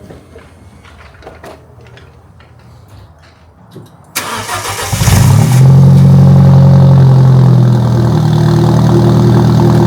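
Alfa Romeo 4C's turbocharged four-cylinder engine starting from cold: about four seconds in it cranks briefly, catches with a rev and settles into a steady fast warm-up idle, easing slightly a few seconds later.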